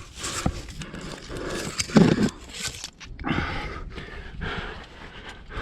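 A climber breathing hard in repeated heavy breaths while working up a rock chimney, with a loud knock about two seconds in.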